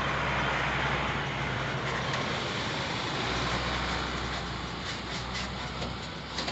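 A motor vehicle's engine running steadily, a low hum under a constant hiss of noise.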